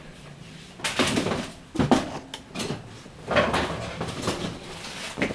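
A series of clatters and rattles as kitchen objects are handled and moved about, about half a dozen separate short bursts, the sharpest about two seconds in.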